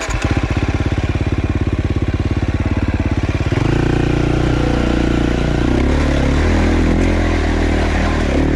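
Dirt bike engine starting up and running with a fast, even beat, then revving harder and running under load from about three and a half seconds in.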